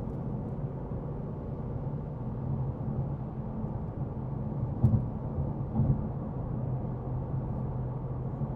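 2026 Ford Mustang GT's 5.0-litre V8 running steadily at a cruise, heard from inside the cabin as an even low drone with road noise, its active exhaust valves in the quieter normal-mode setting. Two brief thumps about five and six seconds in.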